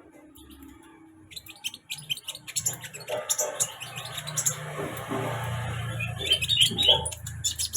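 Olive-backed sunbird (kolibri ninja) chirping, many short high calls in quick succession. A steady rushing noise builds under the calls from about two seconds in and is the loudest sound.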